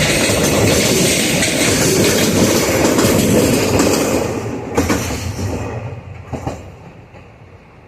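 Freight train wagons rolling past at speed, rumbling with clickety-clack from the rail joints. About four seconds in the noise begins to fall away, with a couple of last wheel knocks, and it has faded to a low hum by about six seconds in as the end of the train passes and recedes.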